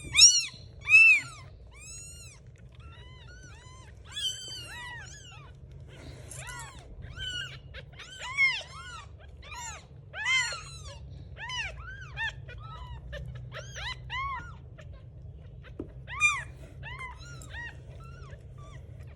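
Kittens mewing: many short, high-pitched mews that rise and fall in pitch, several at once at times, loudest in the first second, over a low steady hum.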